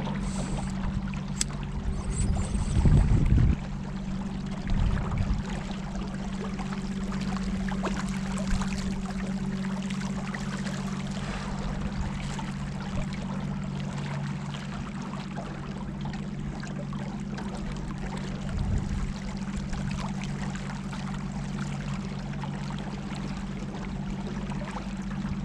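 A boat's motor running at a steady pitch, with water rushing and splashing along the hull. A few brief low rumbles, around three seconds in, again at about five seconds and near nineteen seconds.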